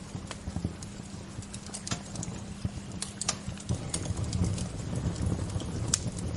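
Wood fire crackling: irregular sharp pops and snaps over a low steady rumble of the flames, which grows a little louder partway through.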